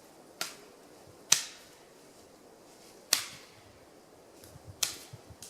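Sharp cracks of dry firewood being broken up, five in all at uneven intervals, the loudest about a second and a half in.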